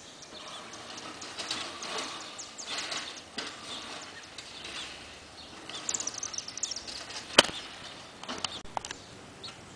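Robin nestlings giving short, high chirps among rustling ivy leaves, with a quick run of falling chirps about six seconds in. One sharp click about seven seconds in.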